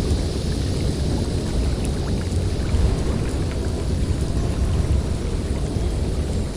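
Blizzard wind blowing through a forest: a steady, loud low rush and rumble, with faint scattered ticks above it.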